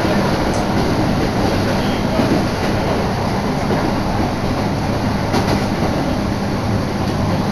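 Iwate Galaxy Railway passenger train running at speed, heard from inside the car: a steady rumble of wheels on rail, with air rushing in through an open window.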